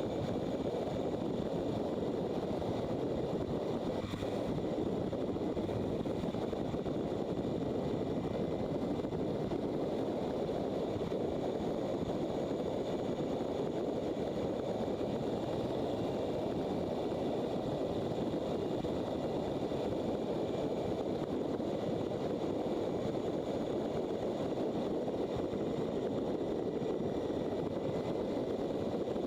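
Steady rush of wind and road noise from a motorcycle riding along, with faint steady high tones over it and no change in speed.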